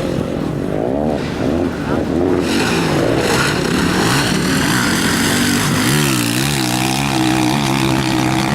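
Motocross bike engines racing on a dirt track, the pitch rising and falling over and over as riders open and close the throttle and shift gears, with a bike coming in louder and closer from about two and a half seconds in.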